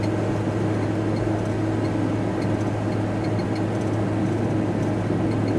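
Steady engine and road drone inside the cab of a VW T4 Transporter van on the move: a constant low hum with a fainter, higher steady tone above it.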